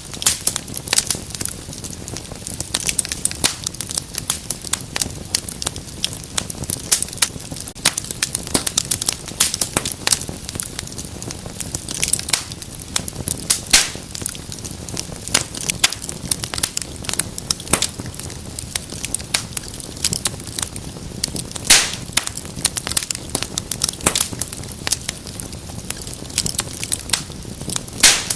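Wood fire in a fireplace crackling steadily, with many small irregular pops over a soft hiss and a few louder snaps, one about two-thirds of the way through and one near the end.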